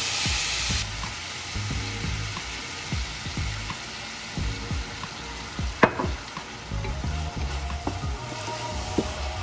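Sliced onions and pieces of fish sizzling in a frying pan while a wooden spatula stirs and scrapes them around the pan. There is one sharp knock of the spatula against the pan about six seconds in.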